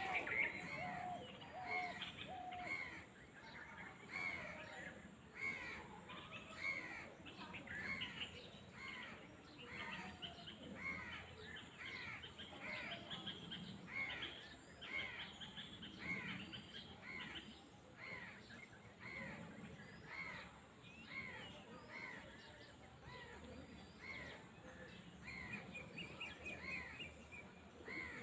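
Birds calling outdoors: one bird repeats a short call over and over, about one to two calls a second, while other birds call more faintly.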